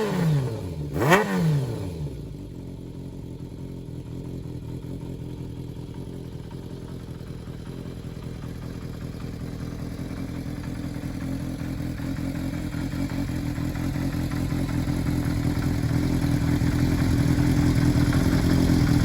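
Kawasaki Zephyr χ's air-cooled inline-four running through a BEET aftermarket exhaust. One quick throttle blip comes about a second in, then the engine settles to a steady idle that grows gradually louder towards the end.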